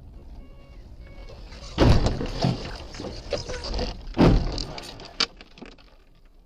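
Car collision: a heavy impact about two seconds in and a second heavy impact about two and a half seconds later, with rattling and clattering between and after them.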